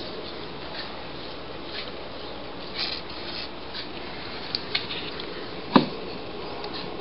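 Quiet indoor room tone with scattered soft clicks and rustles, and one louder short knock a little before the end.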